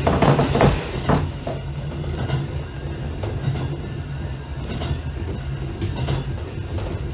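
Electric train running on the rails, heard from the front of the cab: wheels clattering over the track with a steady low hum. It is louder and echoing for about the first second as the train leaves the tunnel, then settles to a quieter rumble with occasional clicks.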